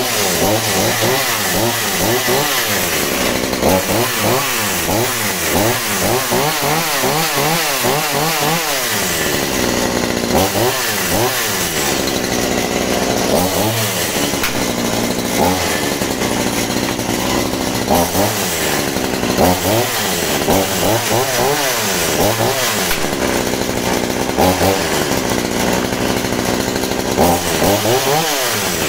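Scheppach CSP41 41 cc two-stroke chainsaw engine running at idle and being revved over and over, its pitch shooting up and dropping back. The revs come in quick succession for the first several seconds, then every few seconds. It is being warmed up after its first start.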